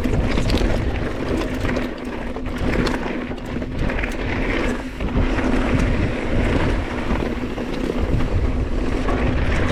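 Wind buffeting the microphone of a mountain biker riding downhill, over the rumble of tyres on a dirt trail and steady clicks and rattles from the bike on rough ground.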